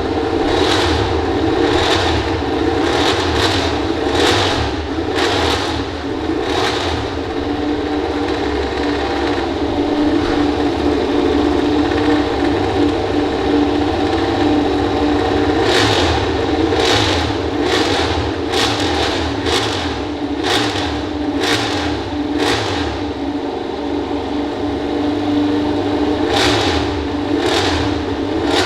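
MotoGP prototype racing motorcycles' 1000 cc four-stroke engines, loud: a steady engine drone overlaid by clusters of short, sharp revving bursts, first in the opening seven seconds, again in the middle and near the end.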